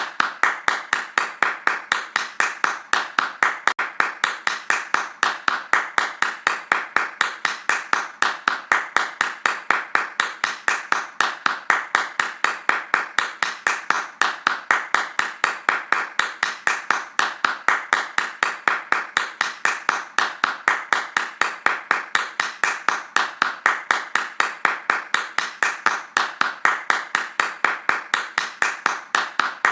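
Hands clapping fast in a steady, even rhythm, about four to five sharp claps a second.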